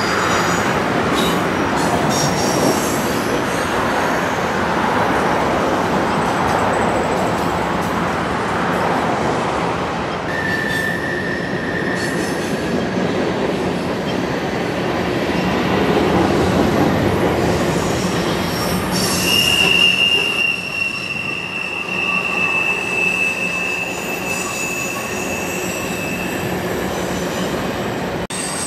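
Cars of a Canadian National freight train rolling past, a steady rumble with wheel clatter. The steel wheels squeal against the rail: a short held whine about ten seconds in, then a longer, higher one from about 19 to 27 seconds, the flange squeal typical of cars taking a curve.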